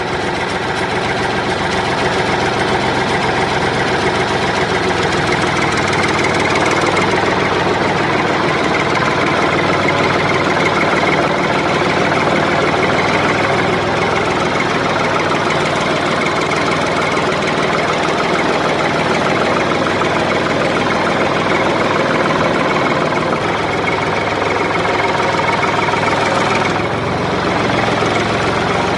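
Motor of a homemade toy tractor running steadily with a mechanical hum, dipping briefly near the end.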